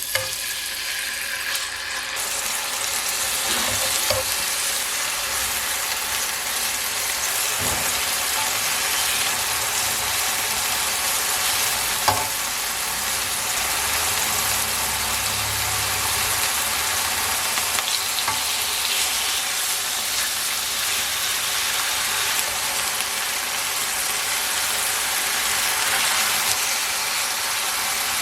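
Marinated boneless chicken pieces frying in hot oil in a pan, a steady sizzle with a few light clicks from time to time.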